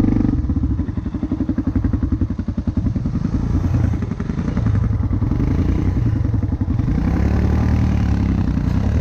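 Motorcycle engine running as the bike is ridden, its firing pulses steady, with the revs rising and falling about seven seconds in.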